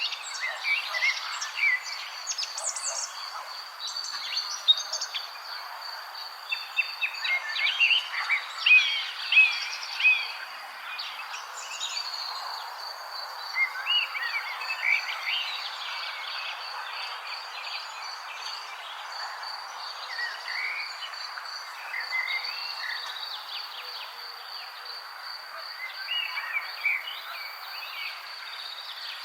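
Wild birds chirping and calling in overlapping clusters of short notes and quick pitch glides, coming every few seconds. Underneath runs a steady, high, pulsing trill.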